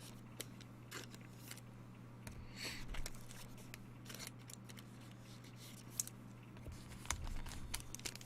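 Faint handling of trading cards: scattered soft clicks and a few brief rustles as cards are slid and flipped, over a steady low hum.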